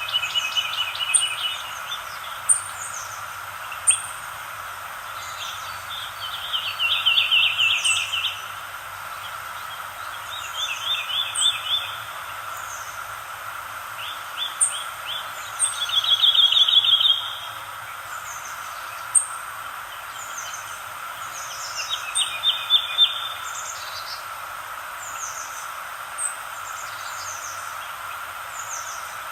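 Birdsong: one bird repeats a short trilled phrase every few seconds, over frequent short, high, falling chirps from another bird. A steady hiss runs underneath.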